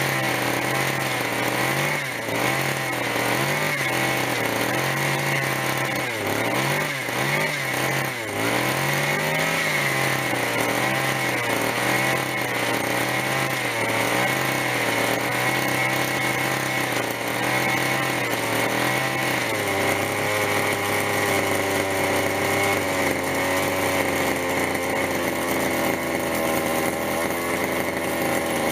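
Zenoah G26 two-stroke gasoline engine of a radio-controlled helicopter running, its speed hunting up and down about every second and a half, then steadying and dropping to a lower steady speed about two-thirds of the way through. It is warm and running on a rich mixture.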